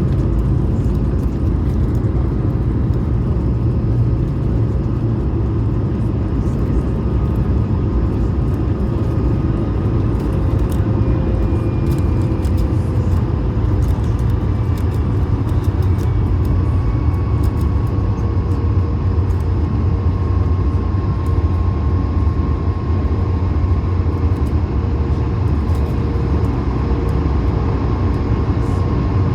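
Cabin noise inside an Airbus A220 on the ground after landing: a steady low rumble with a faint whine from its Pratt & Whitney PW1500G geared turbofans, slowly dropping in pitch as the engines wind down.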